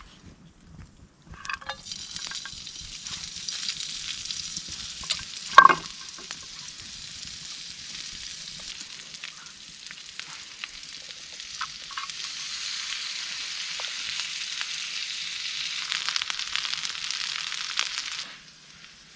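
Potatoes and onion frying in a pan, a steady sizzle. There is one sharp knock about six seconds in, and the sizzle grows louder near the end, then cuts off suddenly.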